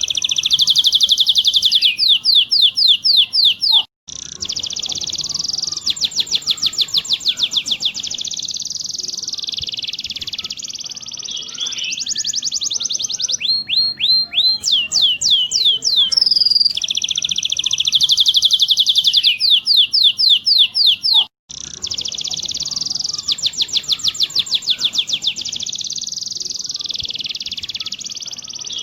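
Domestic canary singing: long, fast rolling trills of rapidly repeated sweeping notes, with brief cuts in the song twice.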